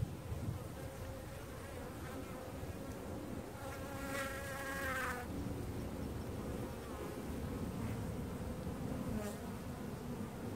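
Honey bees buzzing in large numbers around an opened hive. A single bee passes close for about a second and a half, around four seconds in, with a louder, higher buzz, and briefly again near the end.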